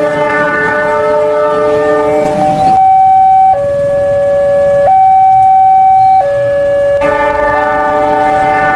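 Electronic train-horn and siren sound effects: a held horn chord of several notes, then a two-tone siren switching between a high and a low pitch about every second and a half, then the horn chord again.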